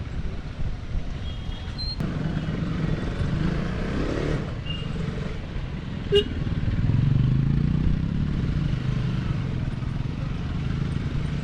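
Motorcycle engine running under way, with steady wind and road noise; the engine note rises briefly about seven seconds in, and there is a single sharp click a little before that.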